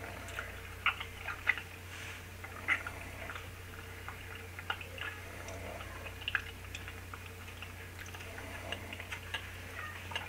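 Quiet, irregular small clicks and smacks of people chewing dense, brownie-like snack cake bites with their mouths closed, over a low steady hum.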